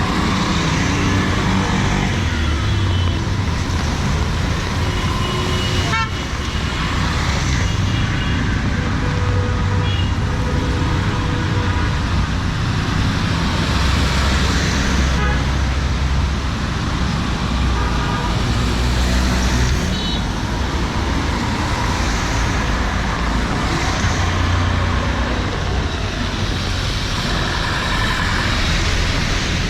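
Busy city street traffic: vehicle engines running and horns tooting several times over a steady wash of road noise.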